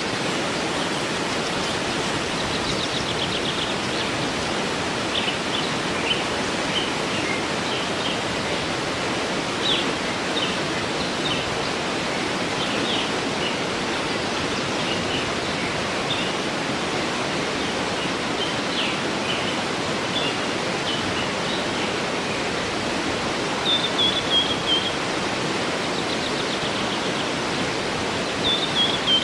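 Waterfall rushing steadily, with small birds calling and chirping over it now and then, including a quick run of falling notes about two-thirds of the way through and again near the end.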